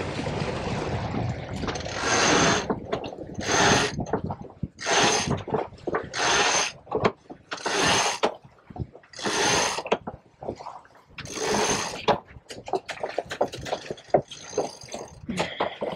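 Water rushing in repeated hissing surges, about one every second and a half, fading into smaller splashes near the end.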